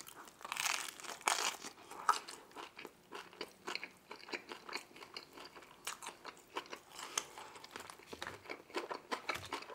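Close-miked chewing of a mouthful of deep-dish pizza: irregular wet crunches and mouth clicks, busiest in the first second or so after the bite.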